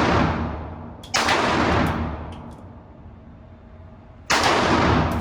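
Two single gunshots about three seconds apart, each followed by a long, echoing decay, with a few faint clicks in between.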